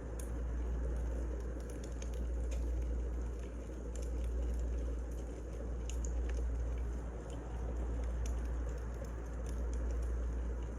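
Burning firewood crackling: scattered sharp pops and snaps over a steady low rumble.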